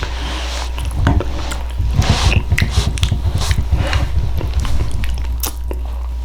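Close-miked chewing and biting of baked sweet potato with its skin on: irregular wet mouth clicks and smacks over a steady low hum.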